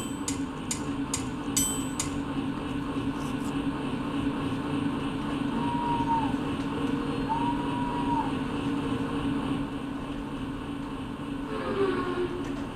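Vehicle sound effect for a stage play: a steady engine-like hum, with two short tones about a second and a half apart near the middle.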